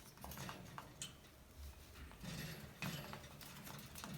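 Faint, irregular clicks and small crunches of a Cape parrot's beak biting and chewing at a wooden foraging box.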